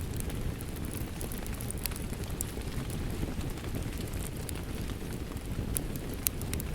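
Wood fire crackling with rain falling: an even, low rush with scattered sharp pops and snaps, one louder pop about six seconds in.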